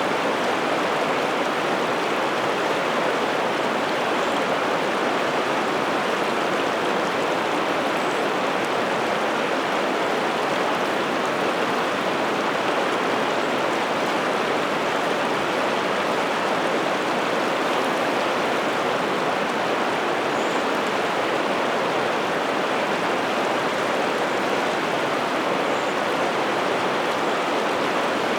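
River water rushing and splashing over rocks, a steady, unbroken rush with no change in level.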